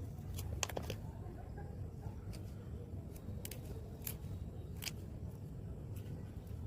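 Scissors snipping plant stems for cuttings: a handful of short, sharp snips at uneven intervals over a low steady rumble.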